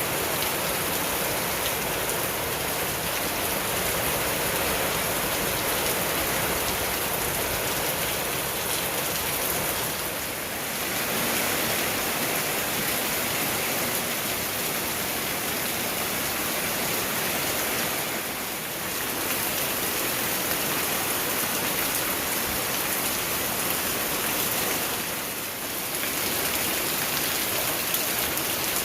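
Heavy rain pouring steadily in a tropical summer storm, easing slightly three times.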